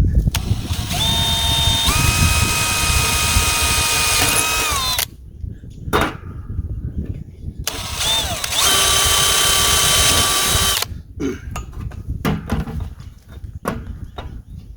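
Power drill running in two bursts, about five seconds and then about three seconds, drilling holes; the motor's whine steps up in pitch partway through the first run. A sharp knock falls between the runs, and a few light clicks follow the second.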